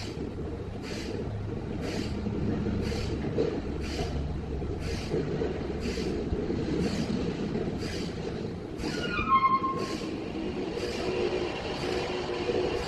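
Log sawmill machinery running, with a steady rumble and regular clicks about once a second. About nine seconds in a whine falls in pitch and settles into a steady hum with several tones.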